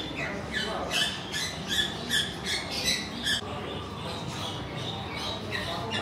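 Many birds chirping and squawking, short calls in quick succession that thin out after about three and a half seconds.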